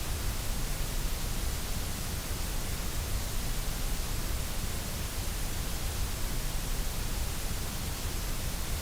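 Steady white noise: a constant, even hiss that does not change.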